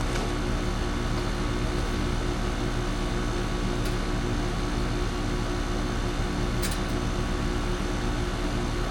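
Steady hum of a running fan motor, with a light click about four seconds in and another near seven seconds.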